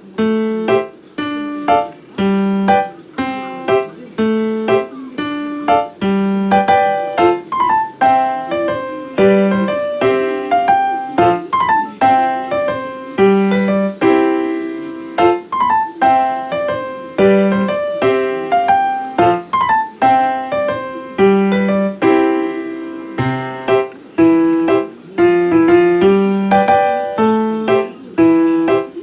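Background piano music: a steady run of separate notes, each struck and fading, in an even rhythm.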